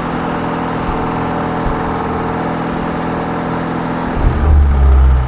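Zastava 101's four-cylinder engine idling steadily after a cold start, running on a newly fitted single-barrel Weber-type carburettor. About four seconds in, a deep low rumble swells up and stays loud for about a second.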